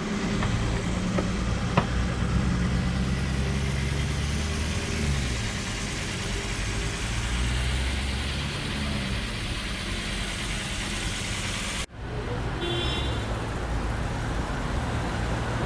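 BMW R1200GS boxer-twin engine running on the road under heavy wind and road noise. The engine note drops about five seconds in. There is a sharp break near the end, where the footage cuts.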